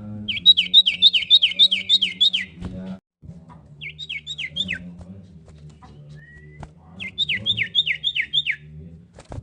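Common iora singing: three bursts of rapid, repeated down-slurred notes, about eight, then five, then six, over a faint low steady hum.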